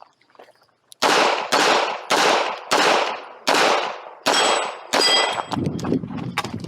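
A competitor's handgun firing a string of about seven shots, one every half second or so, starting about a second in, with a metallic ring after a couple of the later shots. Quieter knocks and a low rumble follow near the end.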